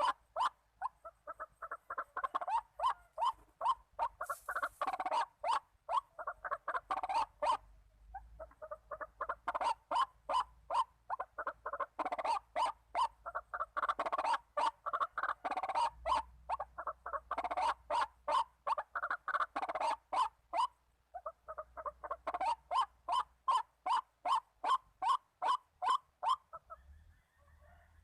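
White-breasted waterhen (ruak-ruak) calling: a long run of short, harsh repeated notes, about three to four a second, in bouts with brief breaks.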